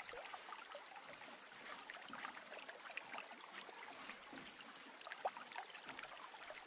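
Stream water babbling and trickling steadily, faint.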